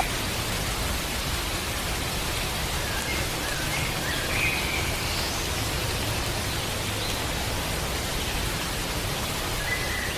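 A steady, even hiss of noise, with a few faint bird-like chirps about three to five seconds in.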